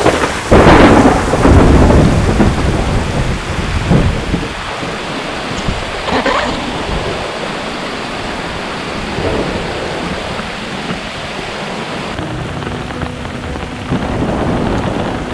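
Thunderstorm on the coast: a loud clap of thunder rumbling for about a second and a half near the start, over heavy rain pouring down, with a few further loud gusty surges of rain and wind.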